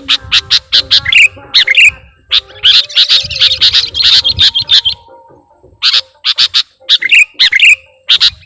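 Sooty-headed bulbul (kutilang) lure song: rapid sharp chirps, about four or five a second, with a dense twittering run a few seconds in and a short pause just past the middle.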